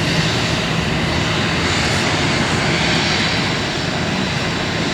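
Airliner engines running, a steady loud rush of noise that holds without a break.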